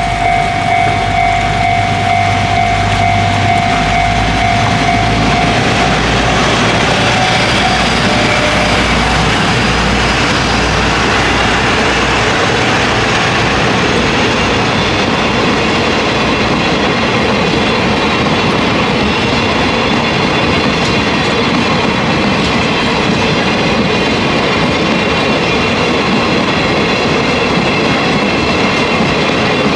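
A diesel freight train passing: a level-crossing warning bell rings steadily for the first several seconds over the locomotive's engine as it approaches and goes by. After that, a long string of steel hopper wagons rolls past, wheels clattering over the rail joints with thin high squeals from the wheels.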